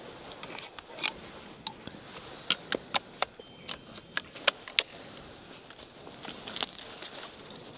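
Irregular sharp clicks and light rustling from a hunter handling his jacket and gear, bunched together for a couple of seconds in the middle.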